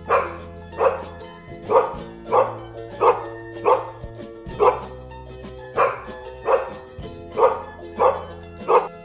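Dog barking repeatedly, about a dozen single barks at an even pace of roughly one every two-thirds of a second, over steady background music.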